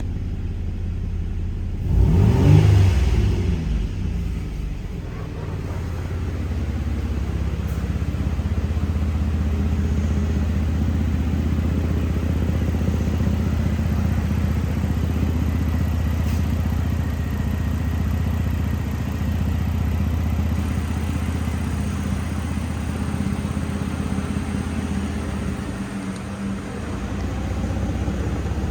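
A 2013 Ford Edge's 3.5L V6 engine runs. It flares up loudly with a rising and falling pitch about two seconds in, then settles into a steady run.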